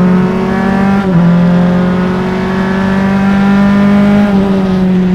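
Single-seater race car's engine pulling hard, heard on board through engine microphones: the pitch climbs, drops sharply about a second in as it shifts up, then climbs again before easing off slightly near the end.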